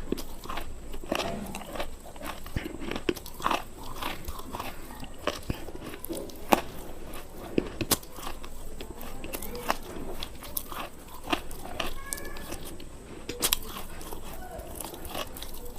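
Close-miked crunchy biting and chewing: many sharp, irregular crackling crunches as a hard, brittle snack is bitten and chewed.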